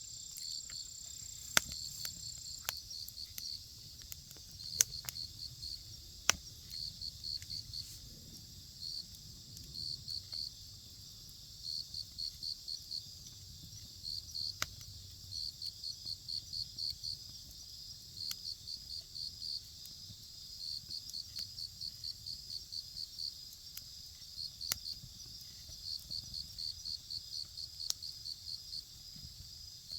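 Insects chirping in quick pulsed trains that repeat throughout, over the sharp crackles and pops of a wood campfire. A thin steady high insect buzz stops a couple of seconds in.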